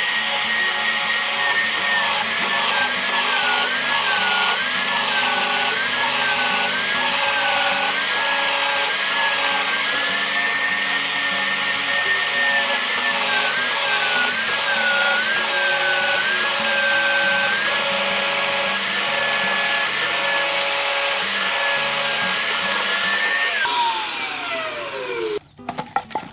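An electric power tool runs hard for over twenty seconds, its motor pitch wavering as it is loaded. It is switched off near the end and winds down with a falling whine.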